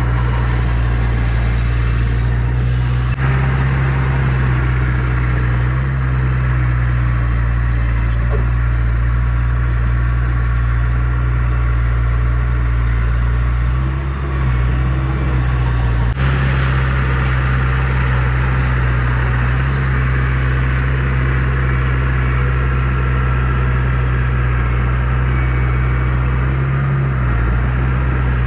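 Heavy diesel engine of earthmoving equipment running steadily at a constant, low pitch.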